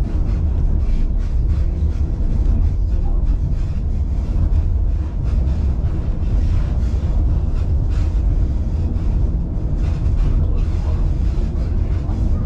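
Passenger train car running along the rails: a steady deep rumble with frequent small rattles and clicks from the car and wheels.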